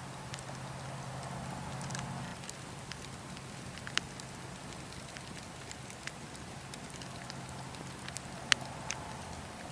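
Wood campfire crackling: a steady hiss of burning wood with scattered sharp pops and snaps, the loudest pop about four seconds in and another just past eight seconds.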